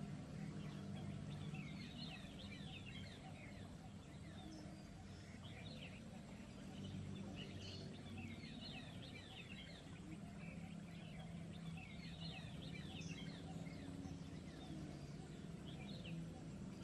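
Small birds chirping in rapid bursts of short, quick calls, over a faint low steady hum.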